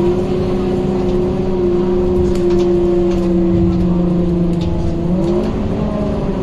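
Scania K230UB bus running, its five-cylinder diesel rumbling under a loud, steady whine from the radiator cooling fan. The pitch shifts slightly about five seconds in.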